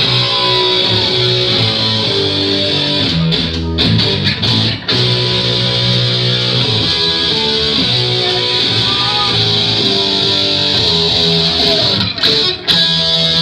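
Live electric guitar playing the opening of a heavy metal song through a club PA, held chords changing every second or so, with two short breaks.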